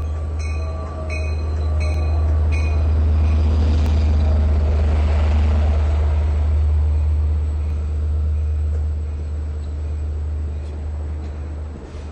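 EMD DM30AC diesel locomotives hauling a long passenger train into a station, with a steady low engine rumble and wheel noise that swells as the train passes close. A bell rings about six times and stops about 2.5 seconds in.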